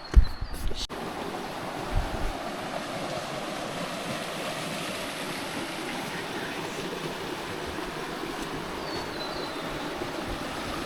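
Steady rush of flowing river water, with a few low thumps in the first two seconds.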